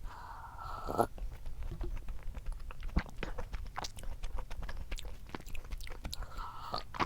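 Close-miked chewing and biting of a soft chocolate snack cake, with small crunches and sharp mouth clicks, the strongest about one and three seconds in.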